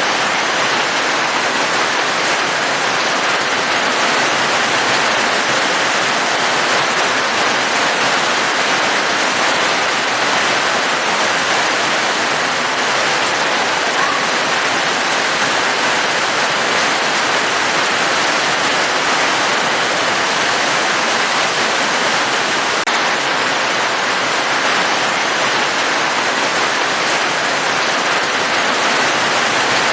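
Heavily falling water, rain-like: a steady, unbroken rushing hiss with no separate drops or breaks.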